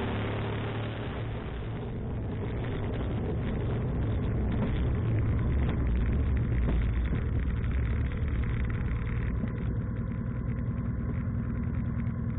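Road and wind hiss from a vehicle at speed for the first couple of seconds, then a steady low engine hum as the vehicle crawls and idles in queuing traffic.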